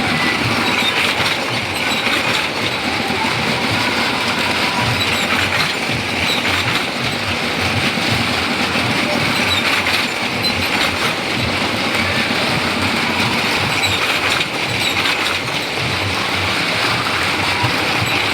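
Motorcycles riding around the wooden wall of a well-of-death drum, their engines running in a loud, unbroken din.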